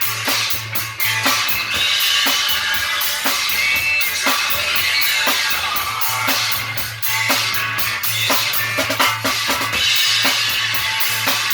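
Rock and roll band playing an instrumental passage with no vocals: a drum kit with bass drum and snare keeping a steady beat over a low bass line.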